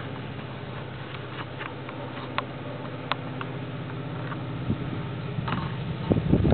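Diesel locomotive engine running steadily, slowly getting louder, with a few sharp clicks scattered through.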